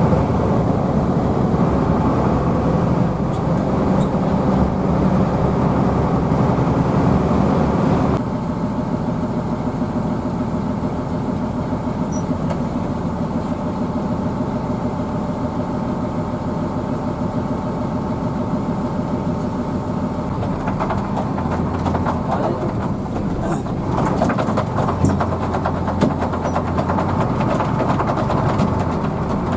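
Hino AK bus's diesel engine running under way, heard from inside the bus together with road noise. The sound shifts abruptly about eight seconds in, and a deeper hum with a rattling texture sets in after about twenty seconds.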